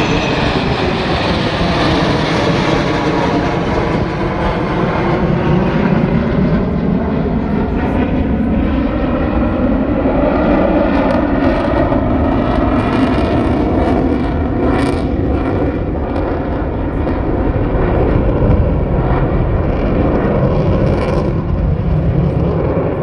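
Loud, steady noise of an airplane's engines as the aircraft passes close by, its tone sweeping slowly as it moves. The noise drops away right at the end.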